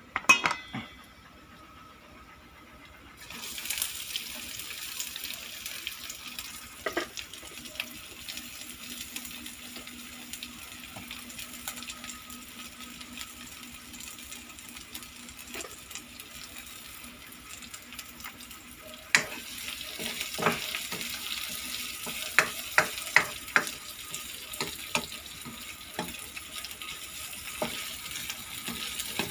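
Garlic and onions sizzling in hot oil in a wok: a steady hiss that starts about three seconds in and grows louder later on. Near the start and again in the second half come sharp clicks and knocks.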